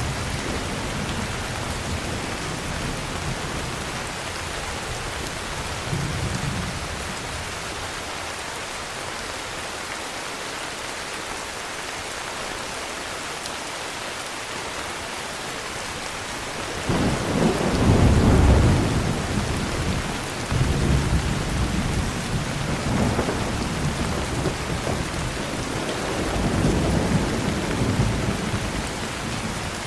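Heavy rain falling steadily, with thunder: a deep roll breaks in suddenly a little past halfway, loudest just after, then rumbles on in waves until near the end.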